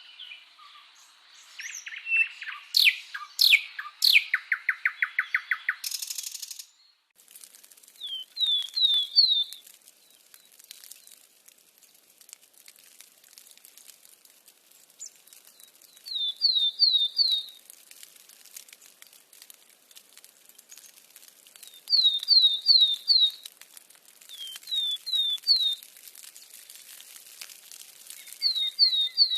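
Birds chirping: a burst of varied chirps and a rapid run of repeated notes in the first six seconds, then short phrases of three or four quick, high, down-slurred notes repeated every few seconds.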